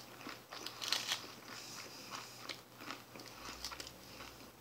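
A person chewing a mouthful of crisp lettuce salad: a string of faint, irregular crunches and crackles.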